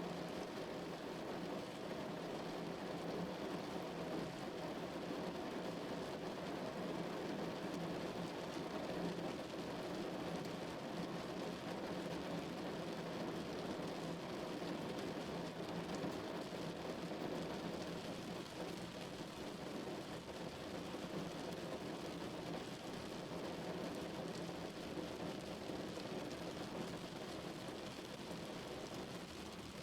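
Steady rain falling on a car's roof and windows, heard from inside the car.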